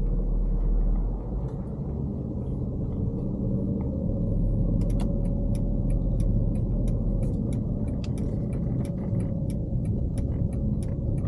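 Car driving, heard from inside the cabin: a steady engine and road rumble. From about five seconds in, a quick regular ticking joins it, about three ticks a second.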